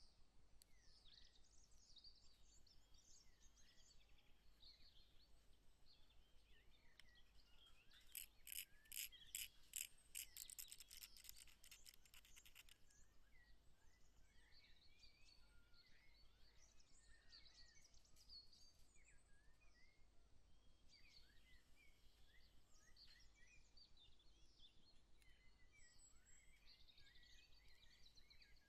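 Faint birdsong, scattered high chirps under a quiet background. About eight seconds in comes a louder run of rapid, evenly spaced scratching strokes lasting about four seconds.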